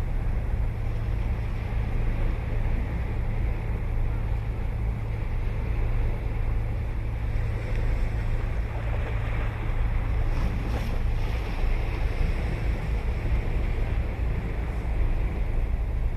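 Ocean surf washing onto a beach, a steady rushing noise over a constant low rumble.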